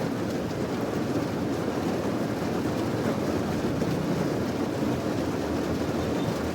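Steady rain falling, an even, unbroken wash of noise that is heaviest low down, with no separate drops or thunder claps standing out.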